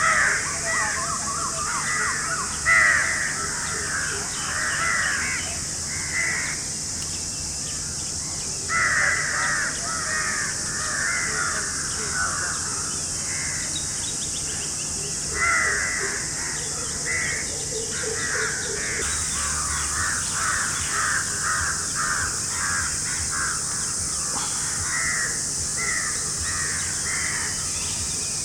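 Birds calling in runs of rapid, harsh, repeated calls with short pauses between runs, over a steady high-pitched hiss.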